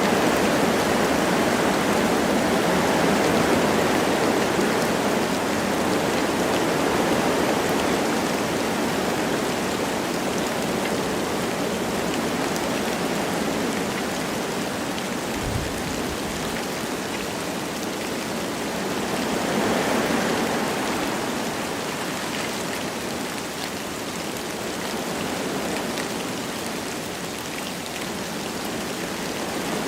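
Wind blowing through forest trees with light rain falling, a steady rushing that swells and eases in gusts, with one gust rising and fading about two-thirds of the way through.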